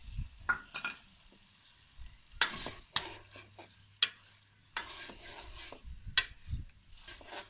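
A spoon stirring and scraping in a karahi of frying chicken and freshly added tomatoes, making irregular clinks and scrapes against the pan over a light sizzle.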